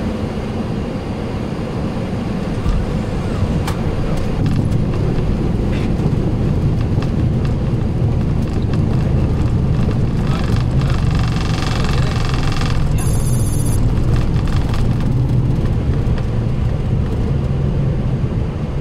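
Boeing 737-800 cockpit on the landing rollout just after touchdown: a steady low rumble of engines and wheels on the runway. It swells about three seconds in and eases near the end, with a short high tone about ten seconds in.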